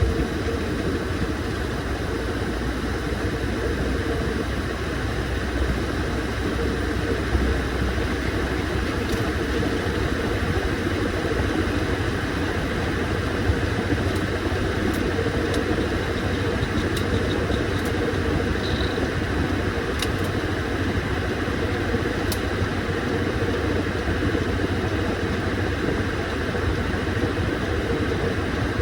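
Washing machine running steadily through its cycle, a constant low motor hum with an even mechanical noise.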